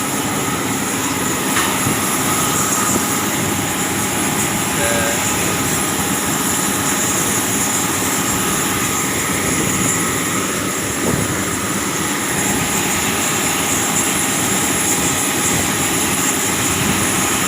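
Airliner engines running steadily: a constant loud rush with a few steady high-pitched whine tones above it.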